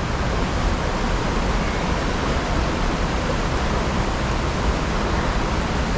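Fast river water rushing over rocks: a steady, even rushing.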